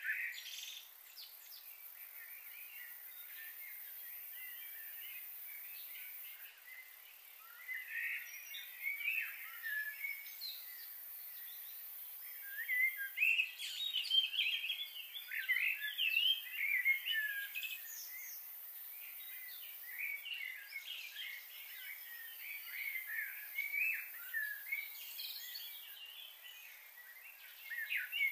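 Small birds chirping and twittering in busy bursts of quick, gliding notes over a steady faint hiss. There are few calls for the first several seconds.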